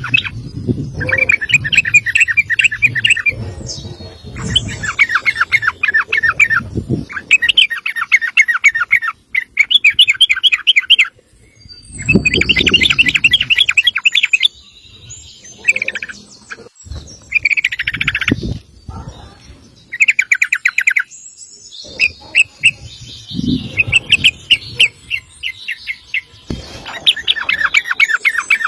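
Yellow-vented bulbul (trucukan) singing its long, fast rolling trill ('ropel'), a run of rapid chattering phrases each one to two seconds long with short pauses between them. Low rumbling noise comes and goes underneath.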